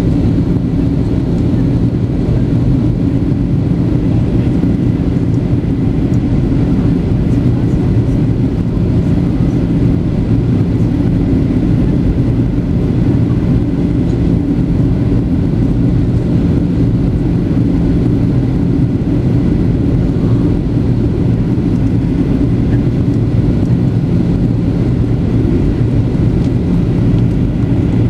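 Steady in-flight cabin noise of a Boeing 737-800 on approach: a constant low engine drone under rushing airflow, with a faint steady high whine.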